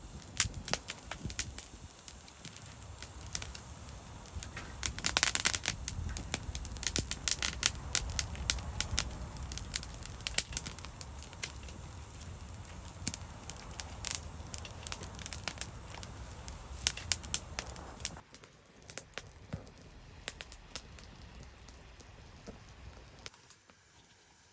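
Wood fire crackling and popping in a secondary-combustion fire pit, irregular sharp snaps over a low steady rumble. The rumble drops away about 18 seconds in, and the crackles thin out near the end.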